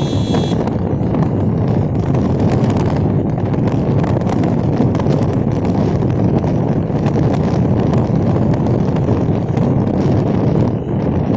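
Steady rumble of a vehicle driving, with wind buffeting the microphone.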